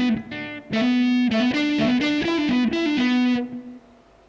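Distorted electric guitar playing a fast legato run of hammer-ons and pull-offs between the 7th and 9th frets on the 4th and 3rd strings, the notes alternating quickly. The last note rings out and fades about three and a half seconds in.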